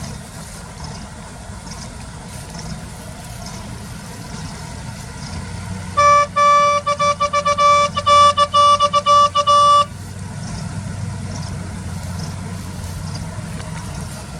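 A vehicle horn honking in a quick run of short blasts for about four seconds, starting about six seconds in. Under it, heavy diesel engines run steadily.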